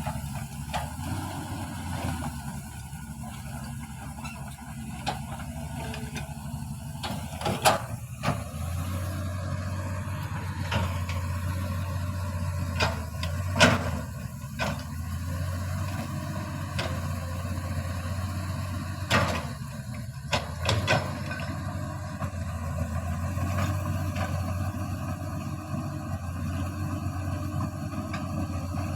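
Engine running steadily with a low hum, with occasional sharp knocks and clanks, the loudest about a third and halfway through.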